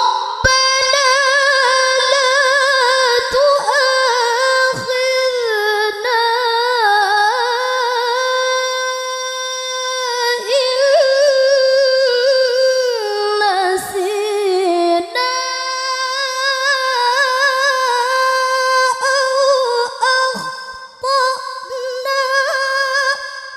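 A woman's voice reciting the Quran in the melodic tilawah style, holding long, ornamented notes that waver and glide in pitch, with a few brief breaks for breath between phrases.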